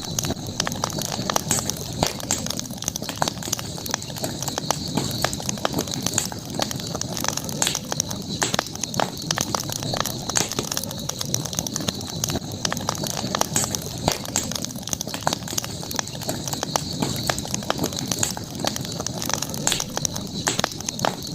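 Campfire crackling steadily, with frequent irregular sharp pops and snaps over a constant high-pitched hiss.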